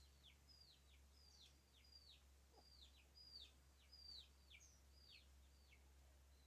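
Faint birdsong: a busy run of short notes, each sliding steeply downward, two or three a second and overlapping, over a steady low hum.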